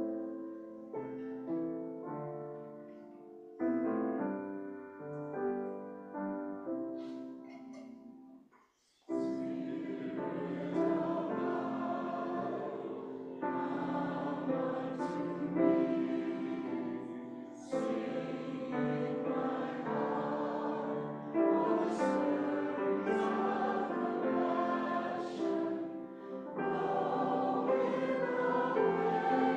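Piano plays a few held chords that fade, then a choir comes in singing with piano accompaniment about nine seconds in.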